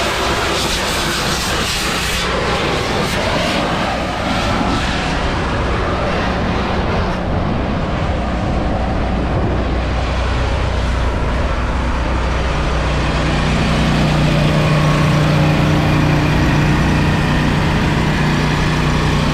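Truck engine running with a continuous rumble and hiss. About twelve seconds in, a steady low drone sets in and holds.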